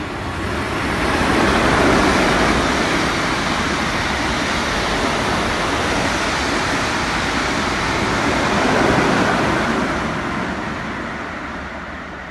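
Electric multiple-unit passenger train running through the station on the far track: a steady rush of wheels on rails that swells as it draws level, stays loud for several seconds, then fades near the end as it goes away.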